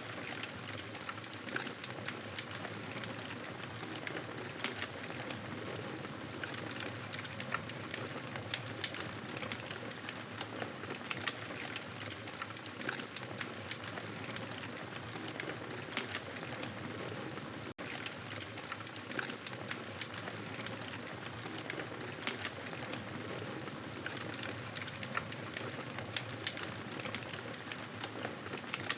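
Campfire crackling: a steady hiss with frequent irregular pops and snaps, broken once by a momentary dropout about two-thirds of the way through.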